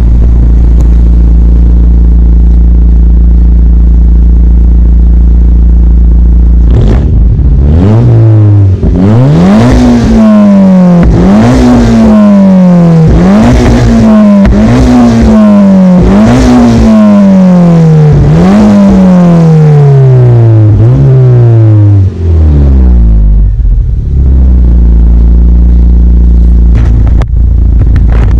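Toyota MR2 Turbo's 3S-GTE turbocharged inline-four exhaust, loud, idling steadily, then revved several times in a row. Each rev rises quickly and falls away more slowly, and the engine settles back to idle near the end. A small crack in the block at cylinder 3 makes the engine misfire.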